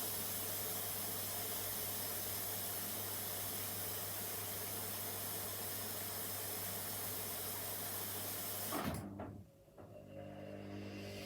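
Washing machine taking in water: a steady hiss of water rushing through the inlet over a low hum. About nine seconds in it ends abruptly with a brief knock, as the fill valve shuts off, leaving a quieter hum.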